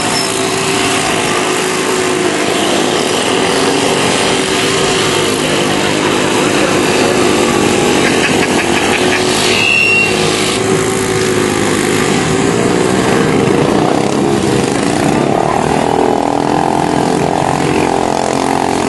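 Small mini bike engines racing, their pitch rising and falling as they rev, with more than one engine heard at once. A brief high-pitched squeal about halfway through.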